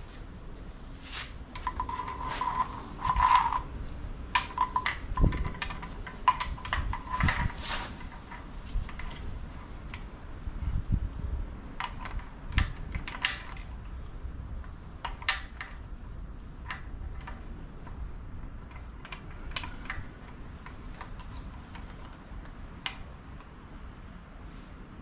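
Engine parts and tools being handled during reassembly: scattered metallic clicks, clinks and knocks, busiest in the first half, with a brief ringing tone early on, over a steady low hum.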